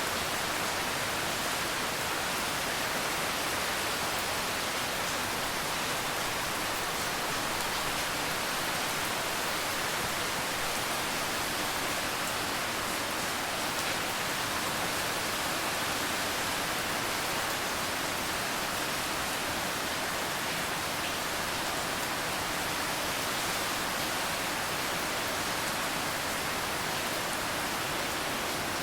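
Steady rain falling: a constant, even hiss with no separate drops, thunder or other sounds standing out.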